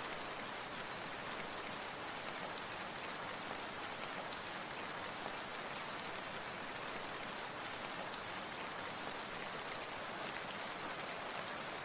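Steady rain falling, an even patter of many small drops with no change in level.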